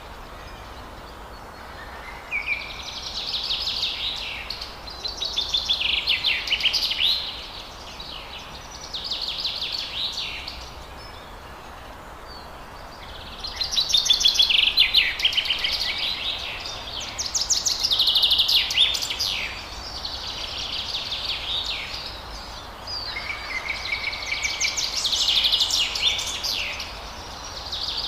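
Forest songbirds singing: bursts of rapid, high, chattering song, each a second or two long, coming every few seconds over a steady background hiss.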